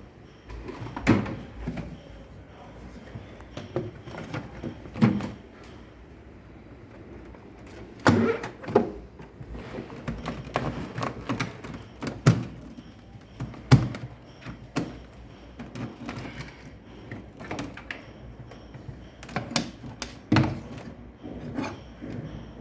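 Irregular knocks and thunks of refrigerator parts and tools being handled during a thermostat repair, about a dozen sharp ones, over a low steady hum.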